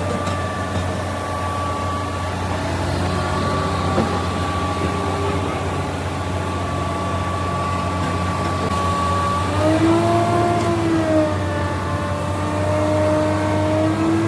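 Tractor diesel engine running steadily under load, its pitch rising briefly about ten seconds in as it is revved and then dropping back.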